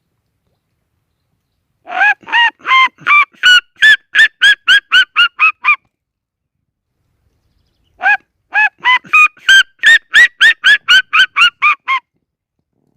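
Red-legged seriema calling: two loud runs of yelping notes at about four a second, each run starting lower and climbing in pitch over its first few notes.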